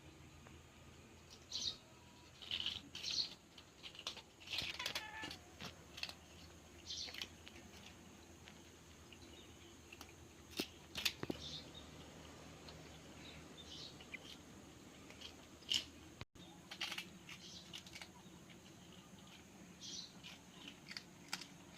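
Cats chewing crispy kerupuk crackers: scattered short crunches and crackles, some in quick clusters.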